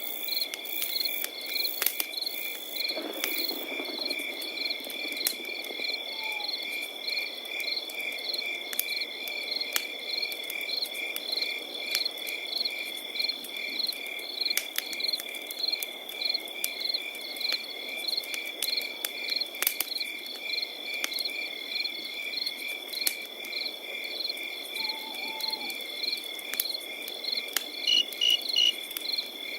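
Crickets chirping in a steady rhythm, about three chirps a second, over a continuous high insect trill, with the scattered sharp pops and crackles of a campfire.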